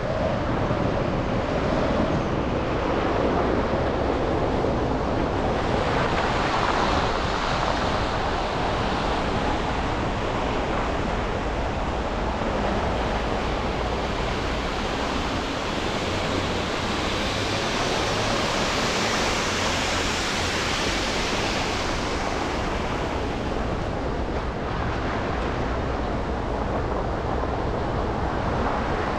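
Steady road and tyre noise of a car driving through city traffic. The hiss grows brighter and louder for several seconds in the middle, then eases back.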